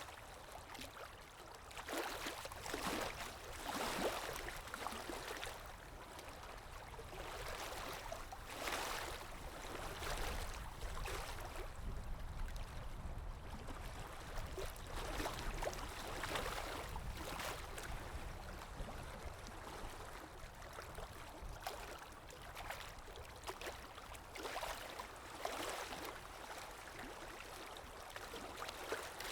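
Calm sea waves washing ashore: a steady hiss of water with gentle swells every few seconds as small waves break and wash back.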